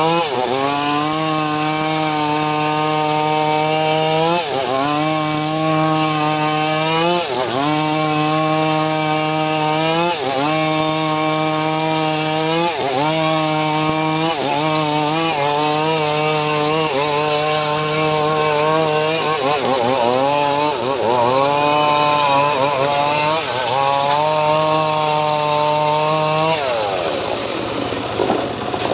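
Engine of a homemade srekel sawmill running under load while sawing mahogany. Its steady hum sags and recovers every two to three seconds as the blade bites into the wood, then winds down near the end.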